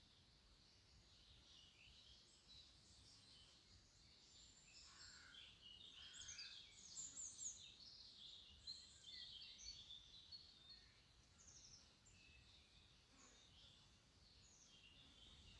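Faint chirping and twittering of birds, busiest in the middle, over quiet background noise.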